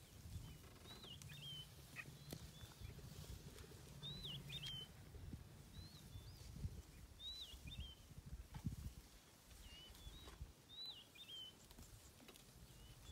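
Faint bird calls: a short, twisting whistled phrase repeated every three seconds or so, over a low rumble.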